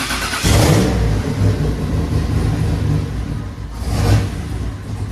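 Turbocharged Pontiac Trans Am's engine running just after catching on its first start-up following the build, a steady low rumble through its 5-inch exhaust. A brief rev about four seconds in.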